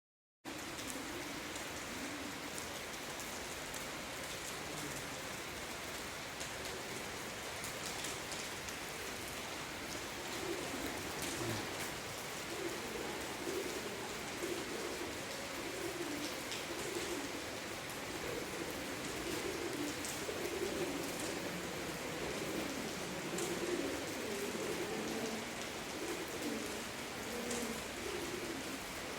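Rain falling and dripping steadily inside a cave, with sharp drip ticks, while pigeons coo on and off in low repeated phrases, more often in the second half.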